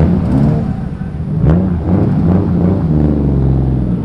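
Car engines revving as cars pull away, their pitch rising and falling over a steady low rumble, with one short sharp pop about a second and a half in.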